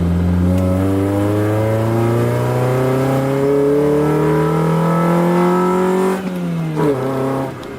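Honda F22B1 2.2-litre SOHC VTEC four-cylinder under hard acceleration, revving up steadily with its pitch rising for about six seconds. Near the end the revs drop sharply as the throttle is lifted for a shift.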